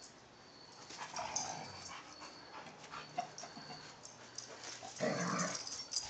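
Two dogs play-wrestling, with short bursts of dog vocalizing: a smaller one about a second in and a louder one about five seconds in.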